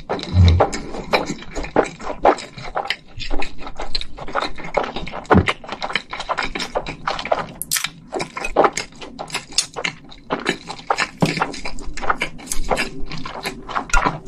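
Close-miked chewing of a mouthful of spicy stir-fried instant noodles: a steady run of irregular small clicks and smacks from the mouth.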